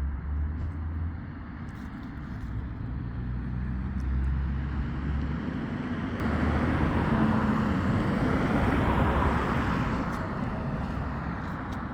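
Road traffic: a low engine hum, then a vehicle passing close by, its engine and tyre noise swelling from about six seconds in, loudest about nine seconds in, then fading.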